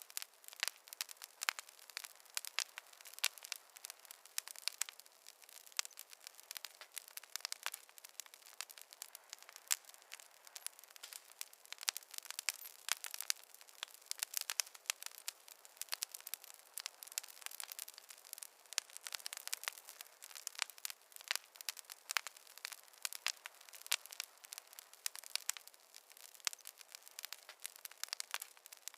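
Fire crackling: a dense, irregular run of sharp pops and snaps over a soft hiss, with no low rumble.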